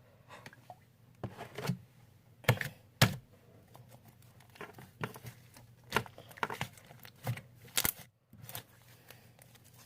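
Hands working sticky homemade slime: irregular crackles and sharp snaps as it is pulled and folded, with two louder snaps close together about a quarter of the way in. The slime is still too sticky.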